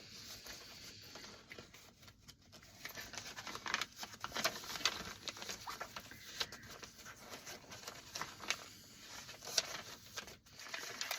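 Paper tags and vintage-paper pages of a handmade journal being handled and turned: soft, irregular rustles and light taps.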